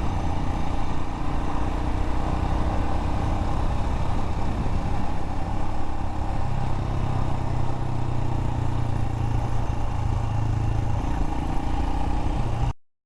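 Royal Enfield Himalayan's single-cylinder engine running steadily while riding, with wind and road noise; its note rises a little about halfway through. The sound cuts off suddenly near the end.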